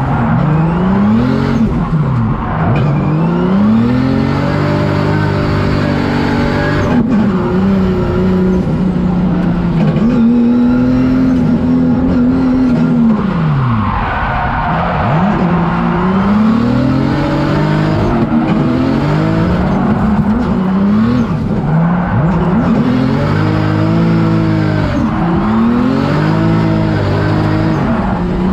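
Drift car engine revving hard through a tandem drift run, its pitch repeatedly climbing and dropping as the throttle is worked, with tyre noise in places, strongest about halfway through.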